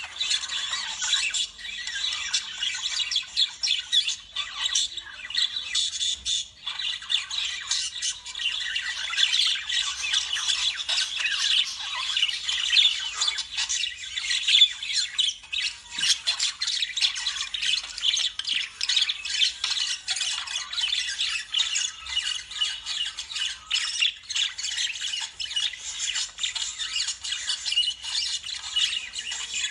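Lovebirds chattering and squawking nonstop, a dense stream of short, shrill, overlapping calls.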